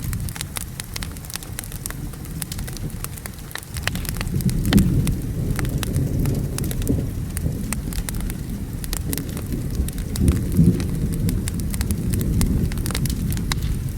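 Thunderstorm ambience: a low, rolling thunder rumble that swells about four seconds in and again around ten seconds, over a steady hiss of rain. Throughout, scattered sharp crackles and pops of a wood fire burning in a fireplace.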